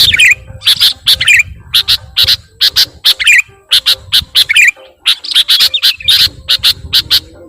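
Small birds chirping: a rapid, irregular series of short, loud, sharp high chirps, several a second, with a brief lull about five seconds in.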